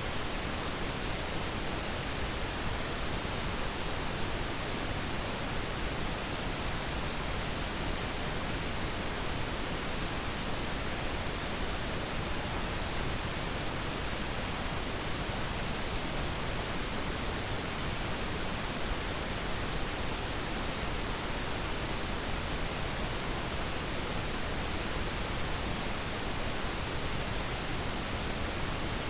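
Steady pink noise: an even, unchanging hiss across the whole range, with no other sound.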